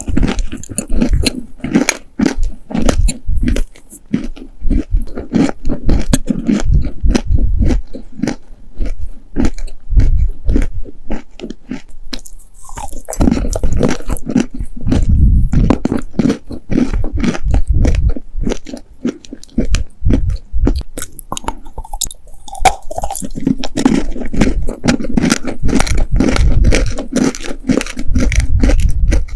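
Close-miked chewing of dry, sandy clay cookies: a continuous run of crisp crunches and gritty grinding.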